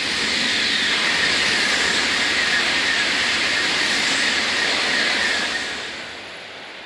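Tokaido Shinkansen high-speed train passing through a station at speed: a loud rushing roar that swells in, holds steady for about five seconds as the train goes by, then fades away.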